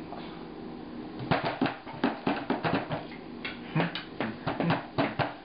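Hands clapping: a quick, uneven run of claps starting about a second in, with a brief pause midway.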